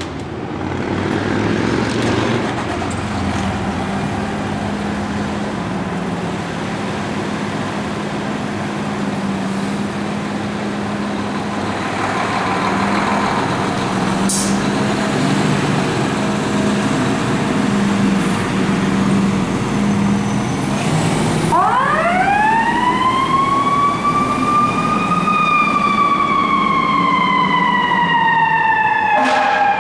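Fire truck's engine running for about twenty seconds, with a short sharp sound about halfway. Then its mechanical siren winds up in a fast-rising wail about two-thirds of the way through, peaks a few seconds later and slowly coasts down in pitch to the end.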